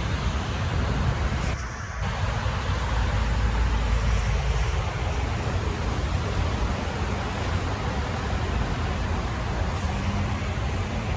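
Wind buffeting the microphone: a steady low rumble with a rushing hiss over it, dipping briefly about two seconds in.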